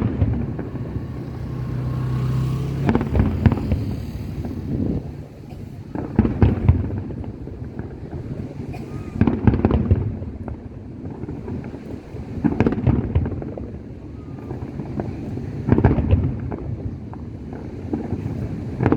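Fireworks display: aerial shells bursting about every three seconds, each burst a loud bang broken into a cluster of sharp cracks.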